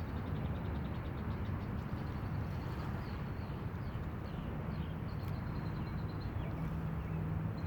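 Steady low outdoor rumble of wind and lakeshore water, with short high bird chirps scattered through it and a quick trill near the start.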